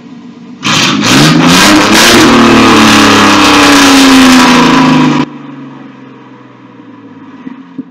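Truck engine with its muffler cut off, revved: from idle it jumps to a loud rev about a second in, climbs in pitch, holds high for about four seconds, then drops suddenly back to idle.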